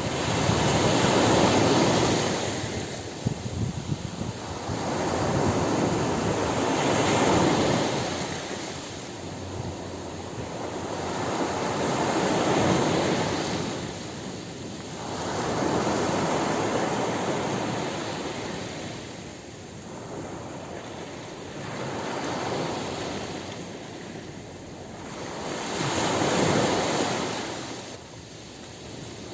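Ocean surf on a beach: waves breaking and washing up the shore, the rush of water swelling and fading again about every five to six seconds.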